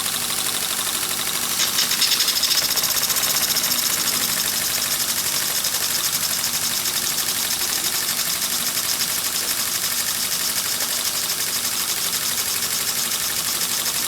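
Two toy live steam engines, one an Empire B43, running steadily at speed: a fast, even chuffing over a constant hiss of steam. A louder rush of hiss comes about two seconds in.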